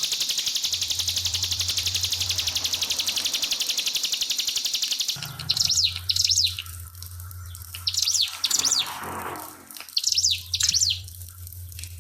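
Ciblek pinus singing: a fast, continuous high trill for about five seconds, then breaking into pairs of sharp, down-slurred notes repeated every couple of seconds. A steady low hum and faint trickling water lie underneath.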